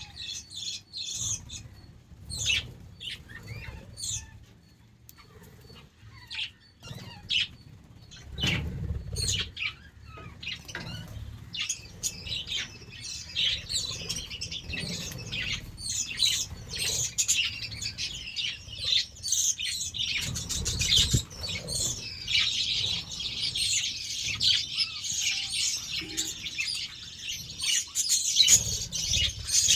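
A flock of budgerigars chirping and chattering. The calls start out scattered and thicken into a dense, continuous chatter through the second half, with a few low thuds about eight seconds in.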